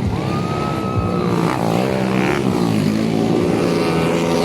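Motocross motorcycle engines running, their pitch wavering as the riders work the throttle, with a thin high whine held for about the first second.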